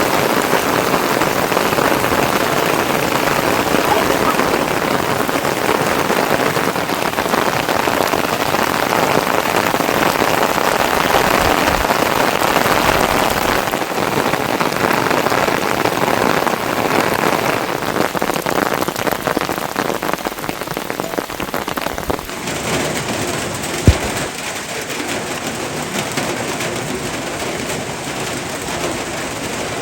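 Heavy rain falling steadily on surfaces, a dense continuous hiss. Past the middle the sound shifts to a somewhat quieter texture, and a single sharp tap stands out shortly after.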